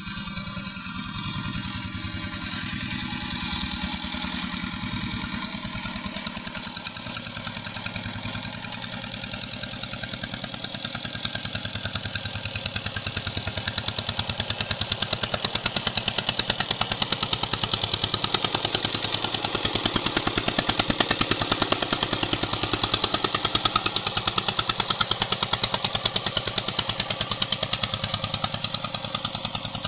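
Walking tractor's engine running with a steady, fast run of even firing pulses, getting louder about ten to fourteen seconds in and then holding.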